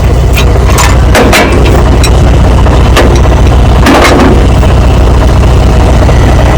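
A vehicle engine idling steadily with a low rumble, with several sharp knocks about one, three and four seconds in.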